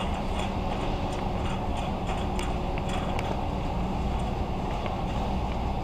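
Warehouse store background noise: a steady low hum with scattered light clicks and rattles.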